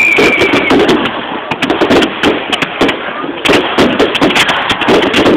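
Fireworks bursting: a dense run of crackles and bangs, with a descending whistle from a firework fading out early in the first second.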